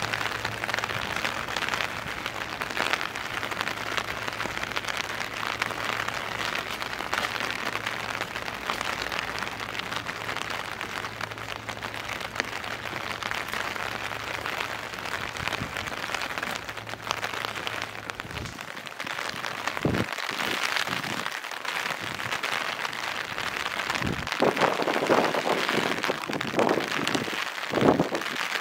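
Steady rain falling on surfaces, with a low steady hum under it for the first two-thirds. A few sharp knocks come near the end.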